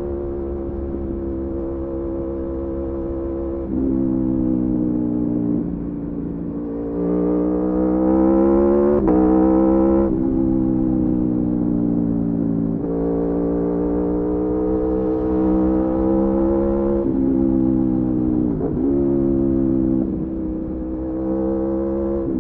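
Aprilia Tuono V4 sport motorcycle engine under way, the revs holding, then climbing under throttle and dropping sharply at gear changes several times, with a quick dip and rise a little after halfway.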